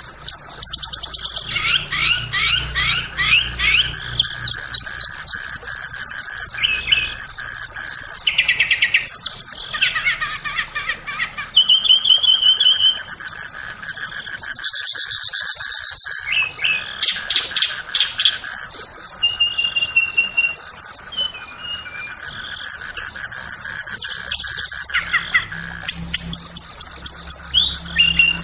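Tledekan (blue flycatcher) singing a continuous, varied song of fast trills, quick repeated notes and short pure whistles, played as a lure recording to get caged birds to sing.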